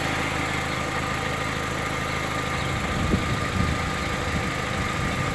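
1991 Toyota Tercel's four-cylinder engine idling steadily. It is still running after two hours in floodwater that reached halfway up the car.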